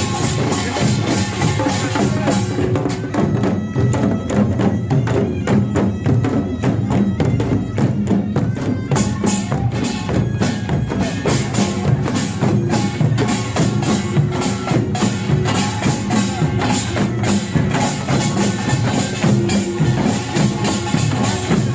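Korean pungmul percussion ensemble playing a fast, continuous rhythm: kkwaenggwari small gongs clanging over janggu hourglass drums, buk barrel drums and jing gongs.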